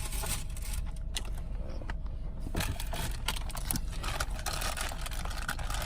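Irregular crackles, clicks and scrapes of eating and handling food wrappers over a steady low hum inside a car.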